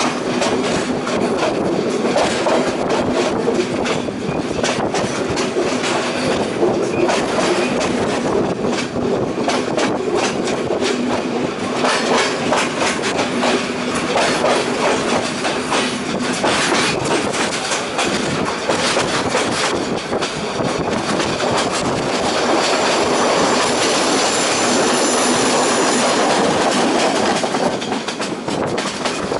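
Passenger train running along the track, heard from inside the carriage: steady rumble with the wheels clacking over rail joints. For several seconds near the end a high-pitched squeal of wheels on the rails sounds over the run.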